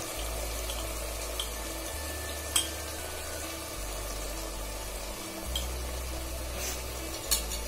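Onion-tomato masala with boiled eggs frying in oil in a steel pressure-cooker pot, a steady soft sizzle; the masala is fried to the point of releasing its oil. A couple of sharp clicks, about two and a half seconds in and again near the end.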